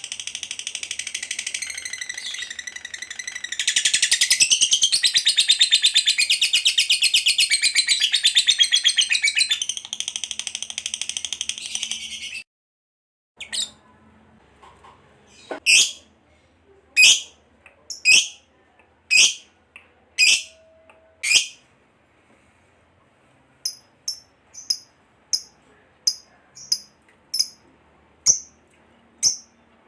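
Lovebird giving a long ngekek, a rapid unbroken high-pitched chatter that grows louder about four seconds in and cuts off suddenly after about twelve seconds. After a short gap come single sharp chirps about once a second, then shorter, quicker chirps near the end.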